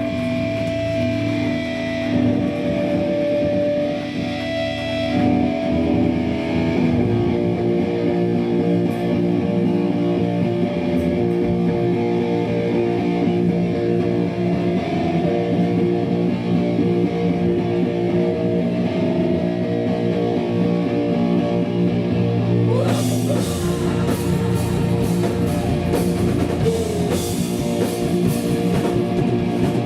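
Hardcore punk band playing live: distorted electric guitar holds sustained notes and then riffs, and drums with crashing cymbals come in about three quarters of the way through.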